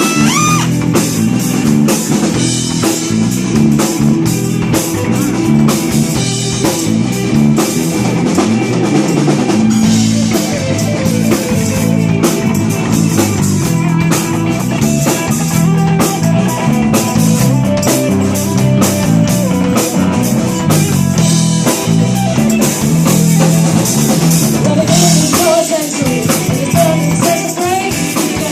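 Live rock band playing an instrumental break: drum kit, bass and electric guitar. A trumpet phrase ends just after the start.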